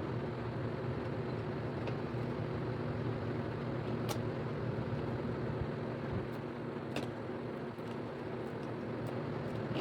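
A steady low mechanical hum, like a motor or fan running, with a few faint clicks.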